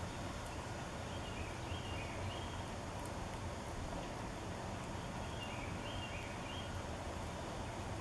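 A songbird singing two short phrases, each a quick run of clear whistled notes alternating higher and lower, over a steady low outdoor rumble.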